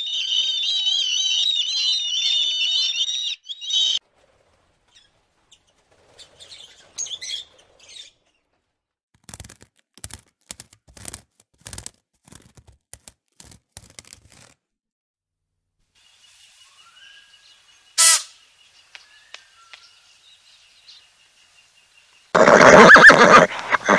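A string of separate animal sounds. It opens with a high warbling call lasting about four seconds, then scattered soft clicks and taps, then one short sharp call, and near the end loud harsh squawks from blue-and-yellow macaws.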